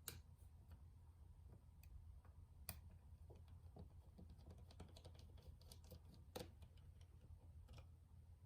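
Faint scattered clicks and light taps of small tools and plastic parts being handled during a Nintendo Switch teardown. Three sharper clicks stand out at the start, a few seconds in, and about three-quarters through, with a quick run of tiny ticks between them, over a steady low hum.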